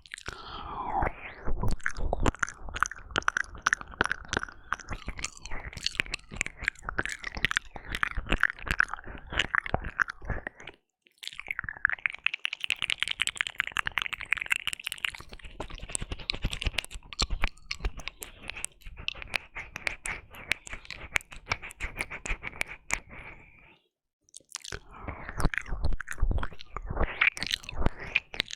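Close-up wet mouth sounds from ear licking and 'ear eating' on a binaural microphone's ear: a dense run of rapid licks, smacks and clicks. The run is twice broken by a brief pause, a third of the way in and again near the end.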